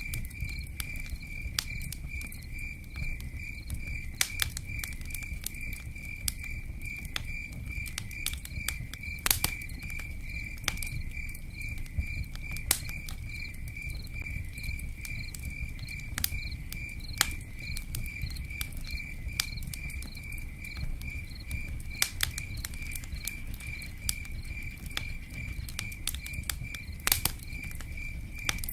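Campfire crackling with scattered sharp pops over a low rumble, while a cricket chirps steadily in an even, rapid pulse.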